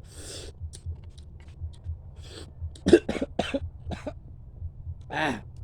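A man coughing: a breathy cough at the start, then a quick fit of four or five sharp coughs about three seconds in, and a throaty cough near the end.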